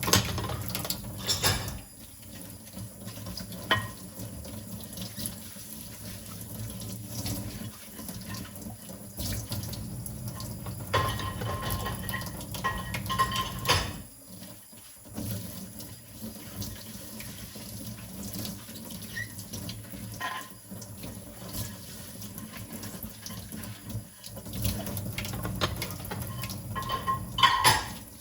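Tap water running into a kitchen sink while dishes are washed by hand. Now and then the dishes clink against each other with a short ringing tone, most often about halfway through and near the end.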